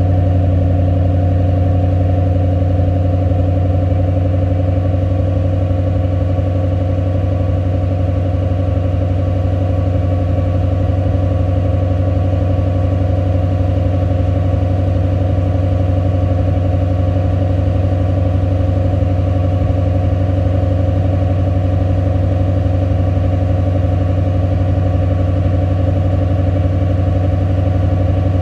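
2006 Roush Mustang's engine idling steadily while it warms up from a cold start, with a deep, even exhaust hum and no revs.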